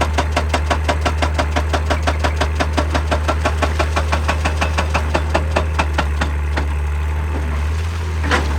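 Excavator-mounted hydraulic breaker hammering rock at a steady rate of about seven blows a second, over the excavator's running diesel engine. The hammering stops about two-thirds of the way in, leaving the engine running, and one louder single knock comes near the end.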